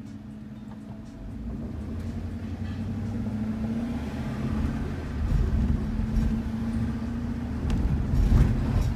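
Shuttle van driving: a steady low engine hum and road rumble that grow louder about a second in, with a few sharp thumps near the end.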